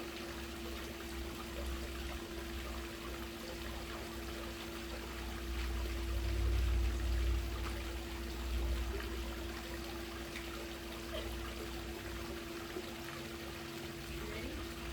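Pool water trickling and splashing over a steady hum, with a low rumble swelling for a couple of seconds near the middle.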